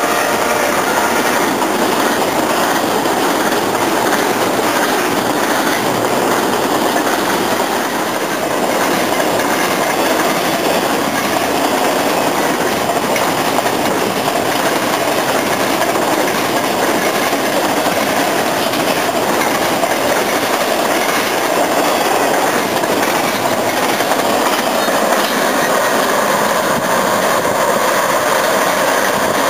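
Long freight train of flatcars carrying highway trailers rolling past, a loud steady rumble of wheels running over the rails. The tail of a locomotive horn dies out in the first second.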